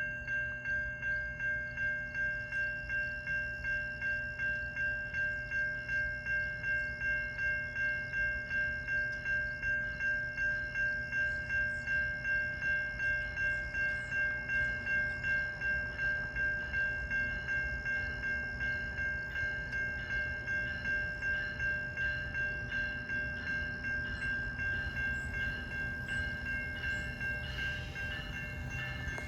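Level-crossing warning bell ringing steadily, about two strokes a second, over the low rumble of a GO Transit commuter train at the crossing.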